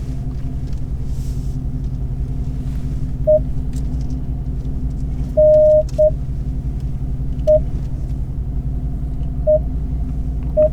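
Car engine and road rumble running low and steady inside the cabin during slow parking manoeuvres. About six short electronic beeps come at irregular gaps, with one longer beep about halfway through.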